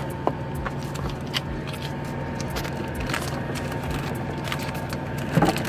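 A steady machine hum with scattered small clicks and knocks of items being handled, and a louder knock near the end.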